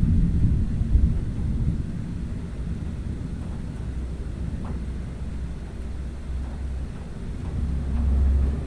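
Thunder rumbling, loudest in the first couple of seconds, then fading to a low rumble that swells again near the end.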